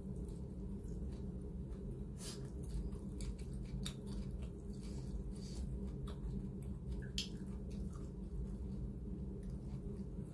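Close-up chewing and lip-smacking of someone eating rice by hand, with scattered small wet clicks every second or so over a steady low hum.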